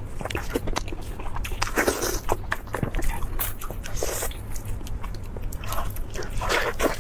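Crunchy biting and chewing of crisp food close to the microphone: quick, irregular crackling crunches.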